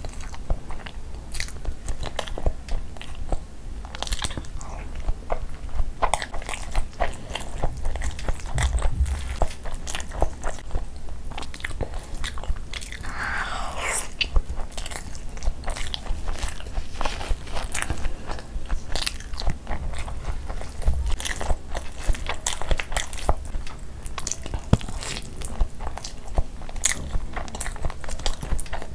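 Close-miked mouth sounds of a person chewing handfuls of khichdi and chicken eaten by hand: wet chewing and biting with many small sharp clicks and smacks, going on without a break.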